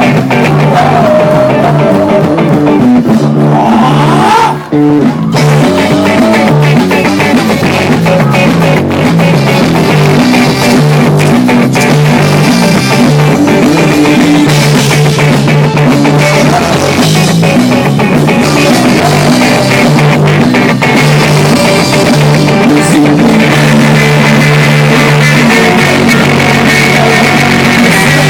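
Loud rock music with electric guitar, bass and drums, briefly dropping out about four and a half seconds in.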